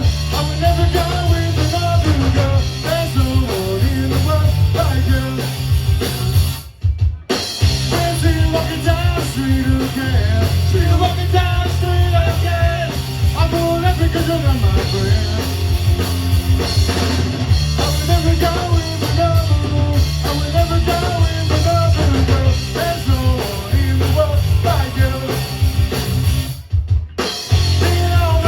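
Loud rock music with drum kit, guitar and singing, cutting out briefly twice, about seven seconds in and near the end.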